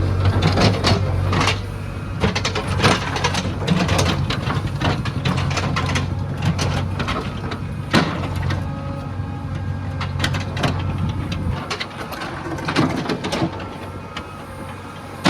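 Heavy diesel engine running steadily under many short, irregular knocks and clanks. The low part of the engine note drops away about twelve seconds in.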